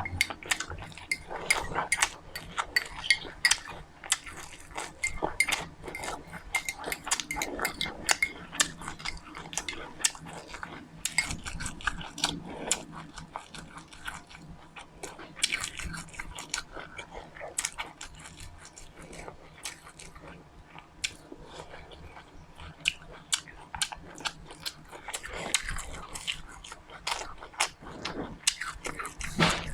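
Close-up chewing and biting of seeds and fruit: a continual run of short, sharp crunches and clicks, thickest in the first half.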